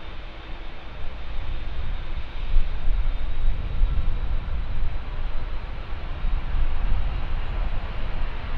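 Jet airliner engine noise: a steady rush with a deep rumble and a faint high whine, with gusts of wind buffeting the microphone.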